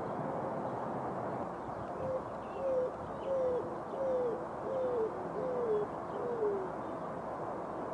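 Greater roadrunner calling: a series of seven low, dove-like coos, each sliding down in pitch and spaced evenly, starting about two seconds in, over a steady wind and city background.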